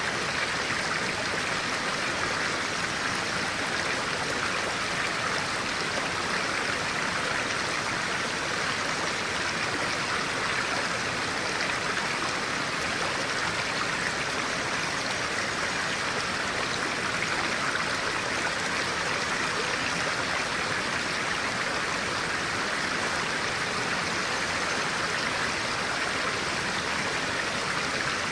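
Clear-water stream flowing steadily, an even, unbroken rush of water.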